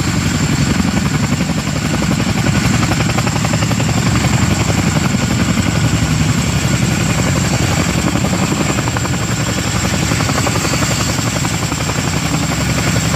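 Boeing CH-47 Chinook tandem-rotor helicopter running loud and steady, its rotors beating in a fast, even chop over a thin high whine.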